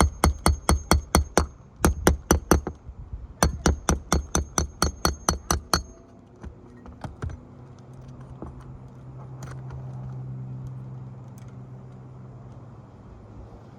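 Hammer driving roofing nails in three quick runs of blows, about five a second, each run with a metallic ring. A low steady hum follows, swelling and fading over the second half.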